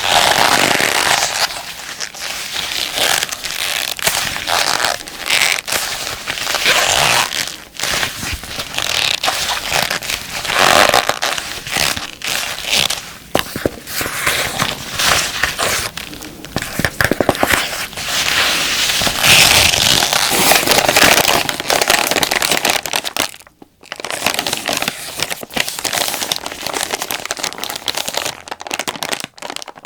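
Close-up crinkling, crackling and rubbing from hands handling combat gloves and then a plastic wet-wipes pack. The sound comes in dense irregular runs, with a brief silence about three-quarters of the way through.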